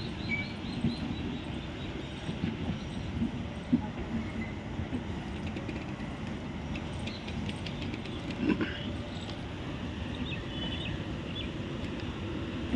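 Passenger coaches of an express train rolling slowly past: a steady low wheel rumble with irregular knocks and clanks, a couple of them louder.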